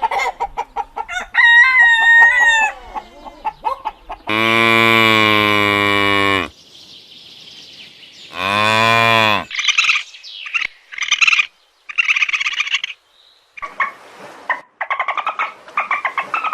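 A string of farm animal calls. Short chirping calls come first, then two long calls of steady low pitch about four and eight seconds in, then runs of short, rapid, clucking calls.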